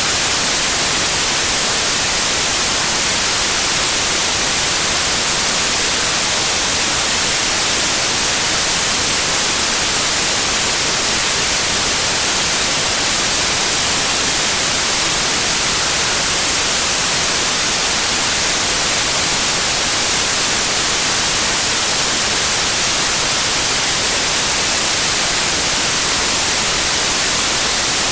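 Steady, unbroken electronically generated noise, a bright, even hiss with most of its energy in the high frequencies.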